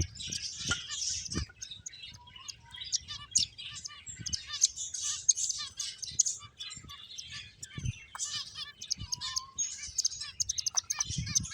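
A group of pet finches chirping: a dense, continuous chatter of short, high chirps. A few soft low thuds are heard in among them.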